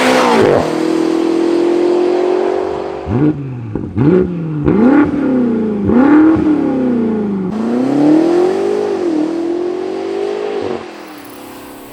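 BMW X5M/X6M's twin-turbo V8 through an aftermarket valved sport exhaust: a loud burst, a held high rev, then a string of quick rev blips rising and falling in pitch, followed by two longer climbs in revs that cut off near the end.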